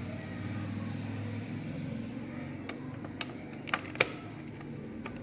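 Sharp plastic clicks and snaps in the second half, four of them within about a second and a half, the loudest about four seconds in, as the plastic clips of a car navigation display housing are worked apart by hand. A steady low hum runs underneath.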